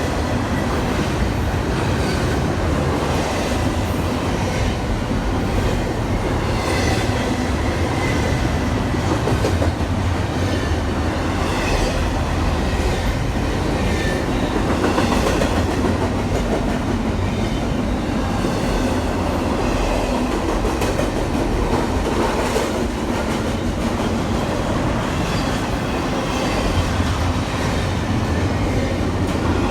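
A train rolling past on steel rails, with a steady rumble and repeated clickety-clack of the wheels passing over rail joints.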